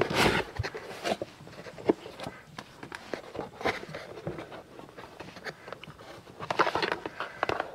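Cardboard box being opened and a solar panel handled in its packing tray: scattered light rustles, scrapes and taps, with a busier run of handling noises near the end.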